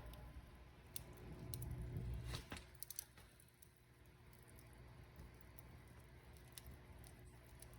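Wood fire crackling: scattered sharp pops and snaps over a low rumble, which eases off after about two and a half seconds.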